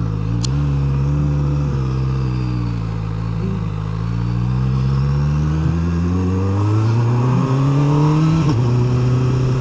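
QJMotor SRK 921 RR motorcycle's inline-four engine under way: the revs fall away for a few seconds, then build steadily again, with a quick gear change near the end.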